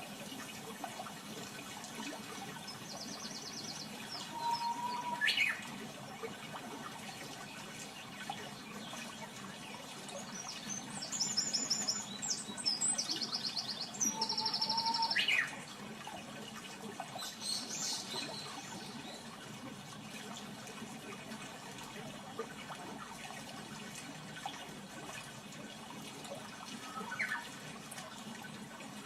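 A songbird sings two bouts of rapid, high trilled song a few seconds in and again in the middle, each closing with a short lower whistle, then gives a few shorter calls later, over a steady rushing background noise.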